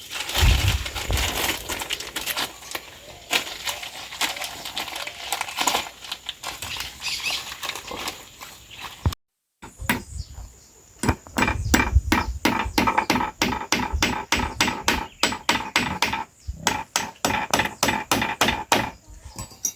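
Crackling and rustling, then a run of fast repeated knocks, a few a second with a ringing note: blows struck on wood while a rough pole garden gate is being built.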